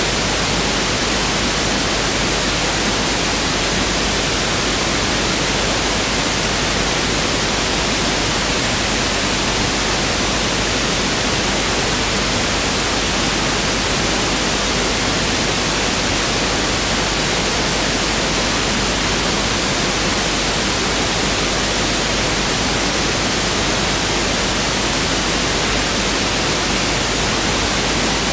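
Pink noise test signal: a steady, even hiss spread across the whole range of pitch, unchanging throughout.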